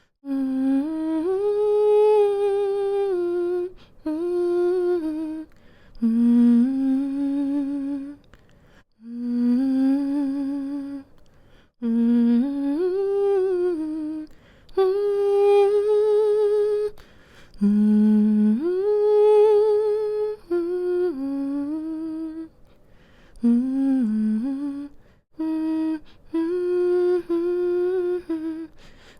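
A woman humming a slow, gentle lullaby melody to soothe a baby to sleep, in phrases of a few seconds with short breath pauses between them.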